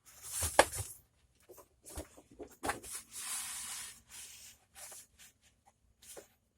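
Handling noise: scattered small clicks and knocks, with a rustle lasting about a second, around three seconds in.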